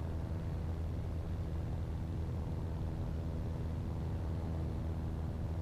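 Cabin drone of a Cessna 172N's four-cylinder Lycoming O-320 engine and propeller, running steadily at climb power after takeoff.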